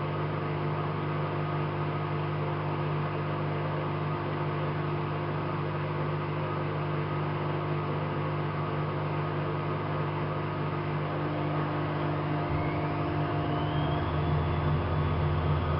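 AEG Lavamat 5210 washing machine's drum motor running steadily, then speeding up about 12 seconds in with a rising whine that levels off at a higher pitch.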